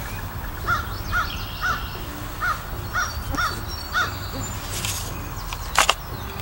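A bird calling outdoors in a series of seven short, evenly spaced calls, about two a second, followed near the end by a brief scrape and one sharp knock, the loudest sound.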